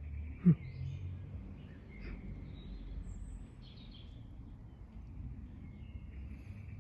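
Small birds chirping now and then over a steady low outdoor rumble, with one short, loud, low sound falling in pitch about half a second in.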